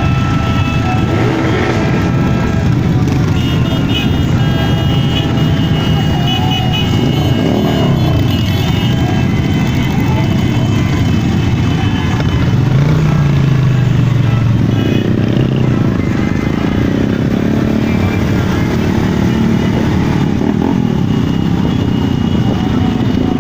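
Several motorcycle engines running together as a parade of motorcycles goes by, their engine notes rising and falling as riders rev, with one clear rev and drop about thirteen seconds in.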